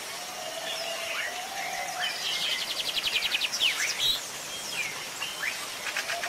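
Birds chirping and calling, with short gliding chirps and a fast trill of about nine notes a second about two seconds in. A steady wavering tone runs under the first two seconds.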